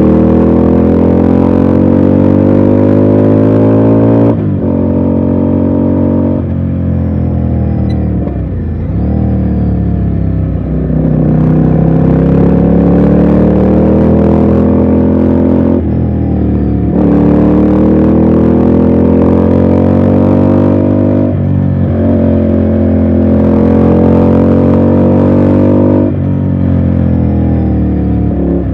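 Ducati Scrambler's L-twin engine pulling under way. Its pitch climbs with the revs and drops sharply at each of several gear changes. Around nine seconds in it sags as the bike slows, then it pulls again.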